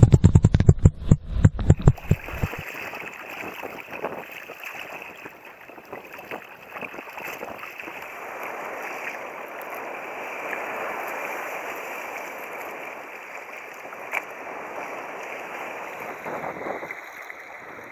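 Water rushing and sloshing steadily along a fishing kayak's hull as it moves, after about two seconds of loud, pulsing low buffeting that cuts off suddenly.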